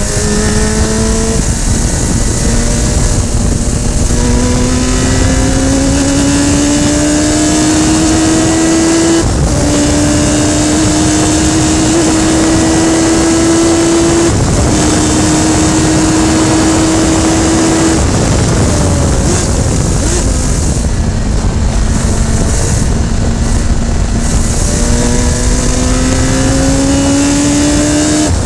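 Radical SR3 race car's engine under hard acceleration, climbing in pitch through the gears with upshifts about 9, 14 and 18 seconds in. It then drops to a lower, steadier note before climbing again near the end, over a steady rush of wind noise.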